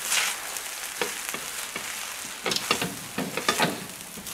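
Fried rice sizzling in a stainless steel pan while a spatula stirs it and scrapes it off the bottom, with a quick run of scrapes and taps about two and a half seconds in.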